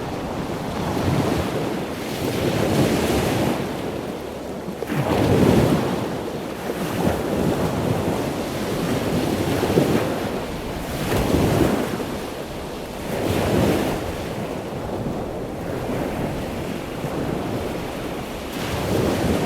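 Ocean waves breaking and washing in, a continuous rushing surf that swells in a surge every few seconds, with wind noise.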